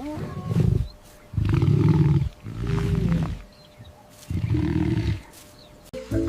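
Lion roaring: four deep roars of about a second each, with short pauses between them.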